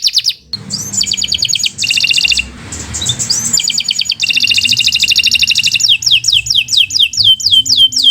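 Domestic canary singing a long, loud song of fast trills, with a brief pause about half a second in. Near the end it switches to a run of quick downward-sweeping notes.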